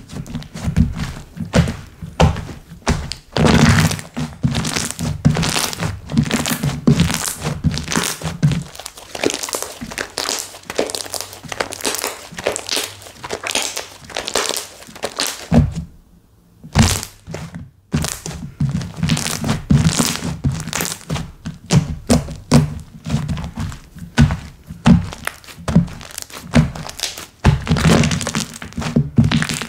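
Slime being squeezed, poked and stretched by hand, making a dense run of sticky clicks and pops, with a short pause about halfway through.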